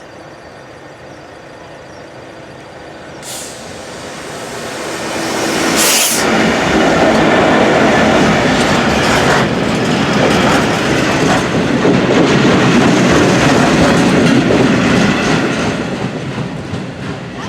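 A train passing close by. It builds up over the first few seconds, is loud for about nine seconds, then starts to fade near the end.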